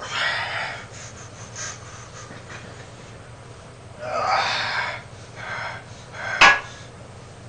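A man breathing hard with exertion while lifting: two long, forceful breaths, one at the start and one about four seconds in, with shorter breaths between. A single sharp knock near the end is the loudest sound.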